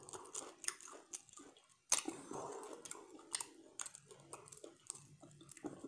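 A person chewing a mouthful of crab meat from a seafood boil, with wet mouth smacks and scattered small clicks; one sharper click about two seconds in.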